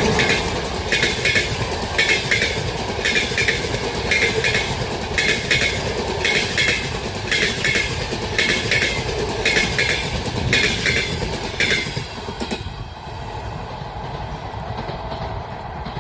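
Passenger train carriages rolling past, their wheels clicking over the rail joints in paired clicks about once a second over a steady rumble. The clicking stops about twelve seconds in as the last carriage passes, leaving a quieter fading rumble.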